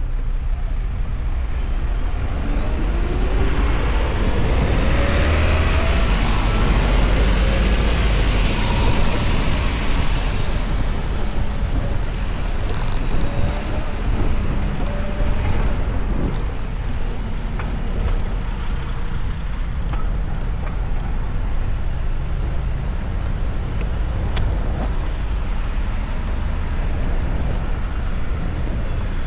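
Wind and city traffic noise heard from a moving electric motorcycle, with a heavy steady rumble. A few seconds in, the noise swells and a whine rises and falls over several seconds before settling back.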